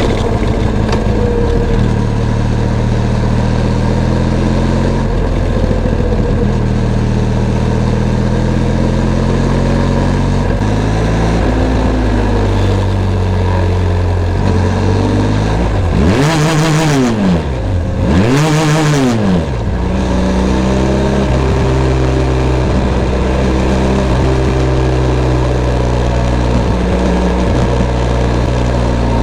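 Benelli TRK 502 X's parallel-twin engine running at a steady pitch. A little past halfway, the revs rise and fall quickly twice, then settle back to the same steady pitch.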